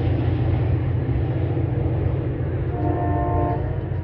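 MBTA commuter rail train's diesel locomotive running with a steady low rumble, with a brief higher tone about three seconds in.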